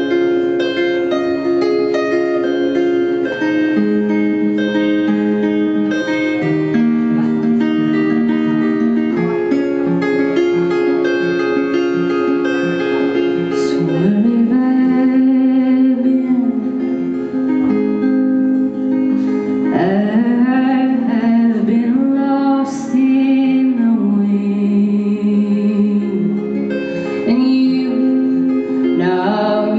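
Live acoustic guitar playing an instrumental passage of the song. About halfway through, a wordless female vocal line joins in, sliding up into its notes.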